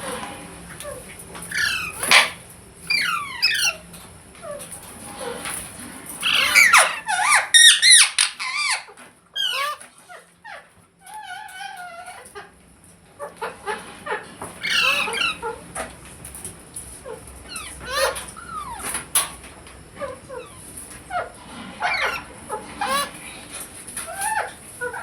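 Green ringneck parrot giving bursts of short, squeaky calls and chatter, with a quieter pause in the middle.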